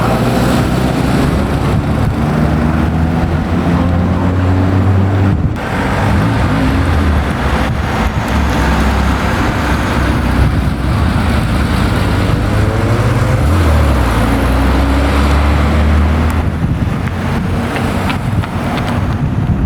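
Classic car engines running, their pitch rising and falling as they rev.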